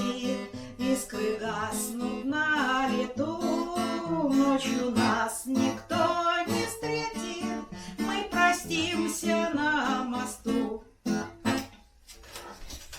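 Singing with acoustic guitar strumming, a song-style performance. The voice stops about a second and a half before the end, and the sound drops off.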